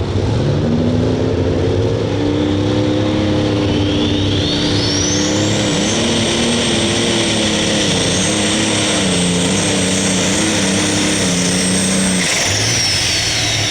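A John Deere 4960 alcohol-burning super stock tractor engine with three turbochargers running under full load on a pull, its pitch wavering. A high turbocharger whine rises about four seconds in and holds. The engine note drops out about twelve seconds in and the whine winds down.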